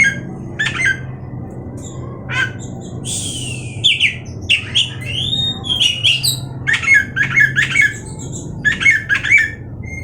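Oriental magpie-robin (kacer) singing a fast, varied song of short chirps and whistled notes, with a harsh rasping call about three seconds in.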